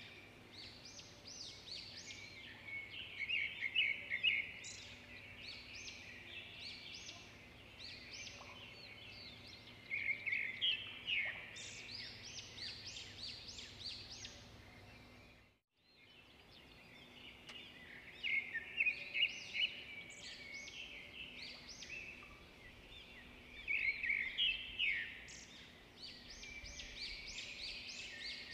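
Birds chirping and trilling in quick, dense clusters over a low background hiss. The sound cuts out completely for a moment about halfway through.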